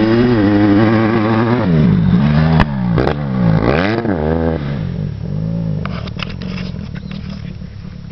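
Honda CRF150 dirt bike's four-stroke single-cylinder engine revving up and dropping off again and again as it is ridden, with a couple of sharp clicks about three seconds in. The engine fades away after about five seconds, leaving faint scattered ticks.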